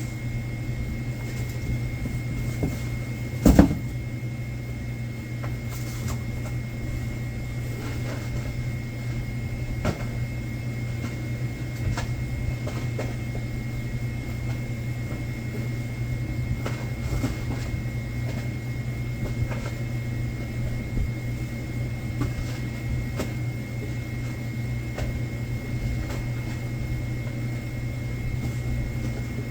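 Stock being handled during convenience-store delivery sorting: scattered small knocks and clicks of goods and boxes, with one louder knock about three and a half seconds in, over a steady machine hum and a steady high whine.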